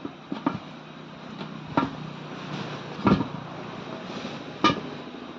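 Tyre tools knocking and clanking against a tractor's front wheel rim during tyre removal: about five sharp metal knocks, the loudest about three seconds in.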